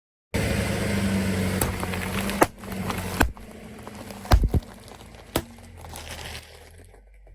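A car tyre rolling over and crushing an object, with crackling and a handful of sharp cracks and snaps over the steady hum of the car's engine. Loudest in the first two seconds, then quieter.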